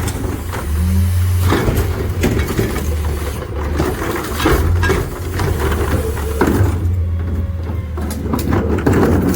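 Freightliner McNeilus rear-loader garbage truck running with a steady low engine rumble, broken by frequent clanks and knocks.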